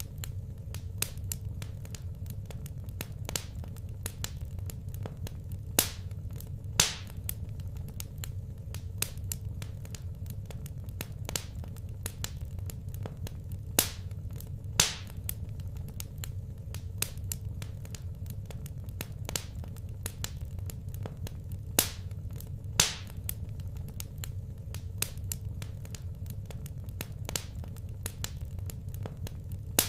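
Wood fire in a fireplace crackling, with a constant patter of small clicks and a few louder sharp pops at irregular intervals over a steady low rumble.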